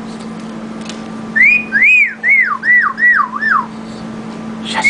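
Pet parrot whistling a quick run of about six swooping notes, each rising then falling, starting about a second and a half in, over a steady low hum.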